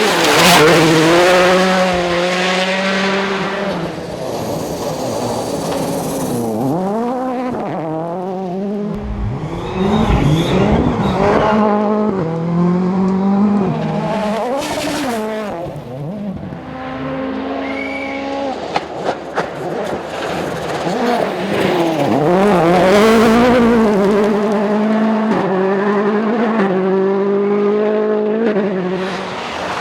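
Rally cars passing at full speed, engines revving hard and dropping in pitch through gear changes, one pass after another, with a few short sharp cracks about two-thirds of the way through.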